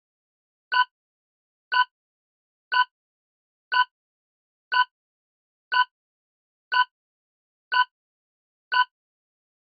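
Quiz countdown timer sound effect: short, identical electronic ticks, one a second, nine in all, with silence between.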